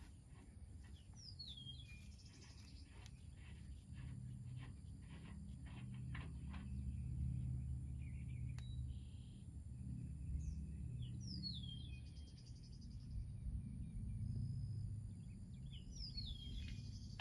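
A bird gives the same short, high, falling call three times, spaced several seconds apart. Under it runs a low steady outdoor rumble, with faint clicks in the first few seconds.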